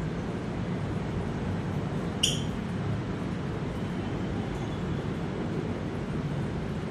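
Steady low rumble with a single short, sharp bird chirp about two seconds in.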